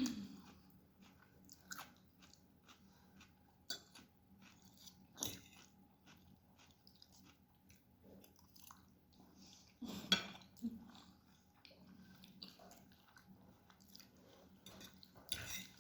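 Close-miked eating of lagman noodles: soft chewing with small wet mouth clicks, and a few louder bites or crunches about 5, 10 and 15 seconds in.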